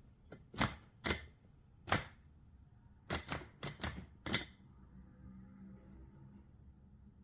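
About eight sharp plastic clicks from a cordless electric coffee grinder being handled, with no motor starting: the grinder won't turn on despite a full charge.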